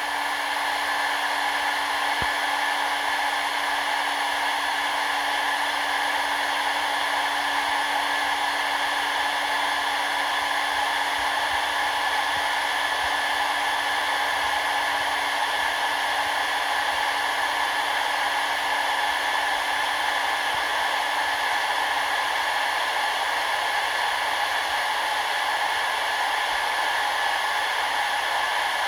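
Engine No. 2 of a scale-model ANA Boeing 787 running at a constant speed on test: an even, steady whirring hiss with a few fixed whining tones, no change in speed throughout.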